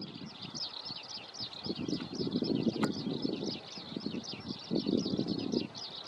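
Many small birds chirping continuously in a dense chatter of short high notes, over a low, uneven rumbling noise.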